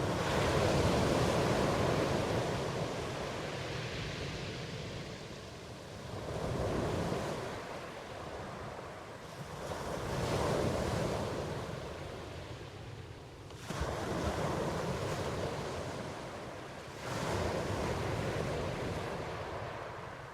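Ocean waves breaking and washing in, about five swells rising and falling, a couple of them surging in suddenly.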